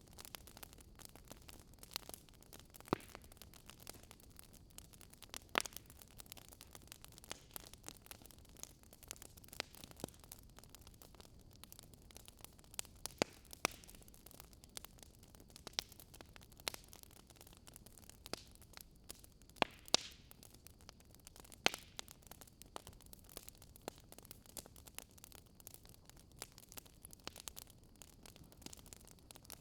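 Wood fire in a fireplace crackling: irregular sharp snaps and pops, a few much louder than the rest, over a steady soft hiss.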